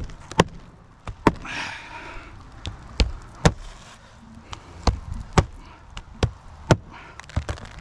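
Hammer blows on roofing: about fifteen sharp, irregular knocks, with a short scraping rustle about a second and a half in.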